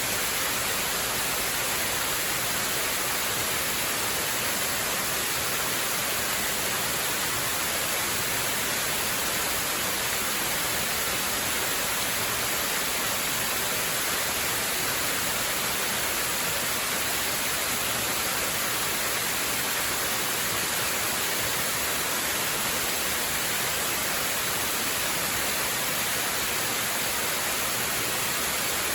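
Waterfall: a steady, unbroken rush of falling water, heavy on hiss, with no change in level.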